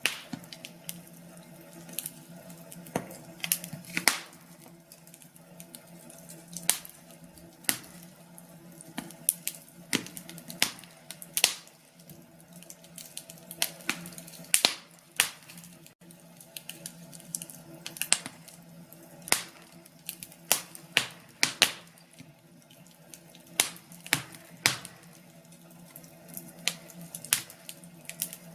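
Log fire crackling in a fireplace: sharp, irregular pops and snaps, sometimes several in quick succession, over a steady low hum of burning.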